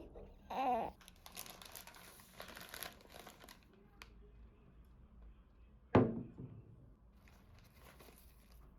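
Paper or plastic packaging crinkling and rustling as it is handled, with a click and then a sharp knock about six seconds in.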